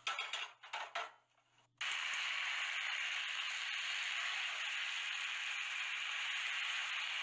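A few clicks and clatters, then from about two seconds in beef sizzling steadily in a hot pan while it is turned with chopsticks.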